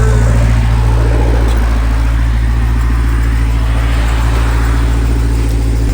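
Jeep Grand Cherokee Trackhawk's supercharged V8 idling steadily with a deep, even low note.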